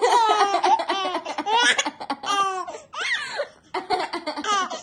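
Baby laughing hard in a string of high-pitched bouts with short breaks between them.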